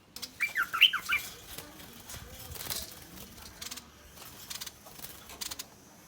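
A bulbul giving a quick run of sharp chirping notes about half a second in, the threatening calls of a wild bird. Fainter clicks and rustles follow.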